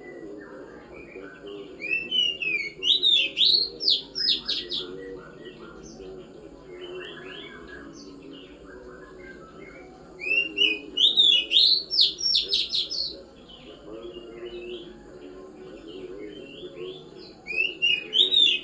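Oriental magpie-robin (kacer) singing: three loud bursts of quick rising notes, about two, ten and seventeen seconds in, with softer scattered notes between them.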